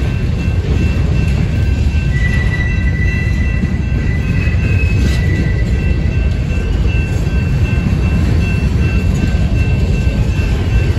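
Covered hopper cars of a Union Pacific grain train rolling past, a steady low rumble of steel wheels on rail. Thin, high wheel squeal rides over it, strongest from about two to five seconds in.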